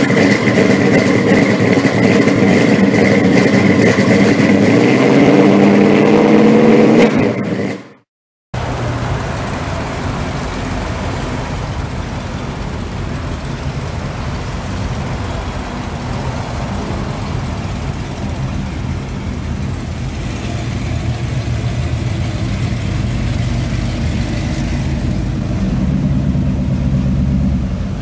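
For about eight seconds an engine revs, its pitch climbing, then it cuts off abruptly. After that, classic cars cruise slowly past with a steady low engine note and tyre noise, which grows louder near the end as a customized 1940s fastback passes close by.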